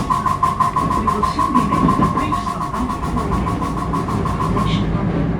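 Rapid, evenly spaced clacking from under the floor of a JR West 223 series 1000 electric train, about seven a second with a ringing tone in step, stopping near the end. The uploader takes it for the air compressor, an abnormal noise whose cause is unknown.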